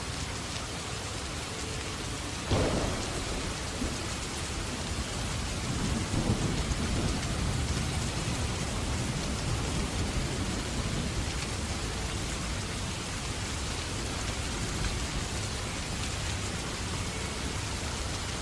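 Steady rain falling, with a sharp thunderclap about two and a half seconds in and low rolling thunder a few seconds later.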